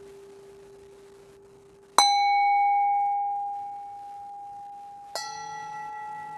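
A struck metal ringing instrument sounds twice, about three seconds apart. Each strike starts sharply and leaves a sustained pure tone with fainter overtones that slowly dies away, the second a little higher in pitch. Before the first strike, a lower tone from an earlier strike fades out.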